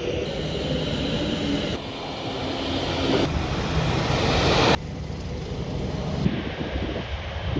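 Trains passing on a main line: loud rushing rail noise in a run of short clips cut together, the sound changing suddenly about every second and a half.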